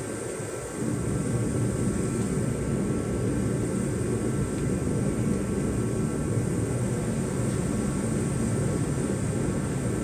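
Welding arc laying a bead on the steel sway-bar mounting bracket of a Porsche 928 frame, starting about a second in and running on steadily.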